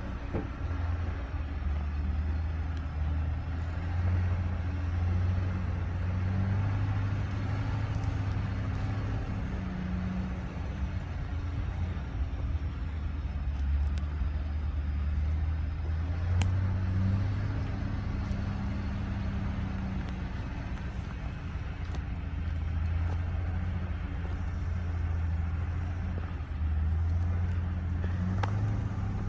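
Engine of an old GMC logging truck running steadily, with its low drone shifting up and down in pitch every few seconds. There is a single sharp click about halfway through.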